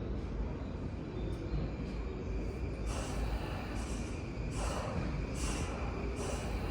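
A Tobu Noda Line electric train pulling into the station, with a steady low rumble. From about halfway in, a thin steady high tone runs through it, along with short hissing bursts roughly once a second.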